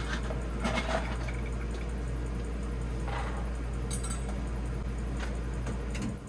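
Truck camper's air conditioner running with a steady hum and low drone, switched off suddenly near the end. A few light clicks and rustles sound over it.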